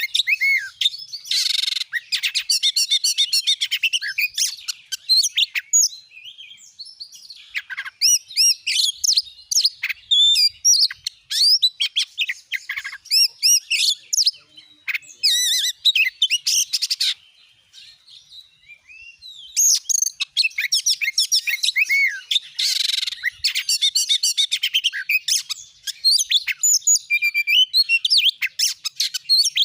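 Oriental magpie-robin (kacer) in full song, a loud, fast stream of varied whistles and chirps. It breaks off briefly about six seconds in and again for a couple of seconds past the middle.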